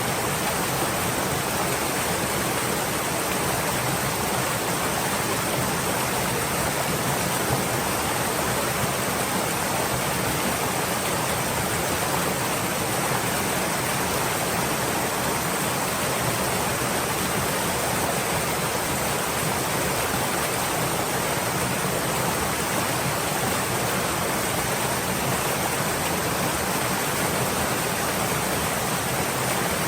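A stream's water flowing steadily in an even, unbroken rush.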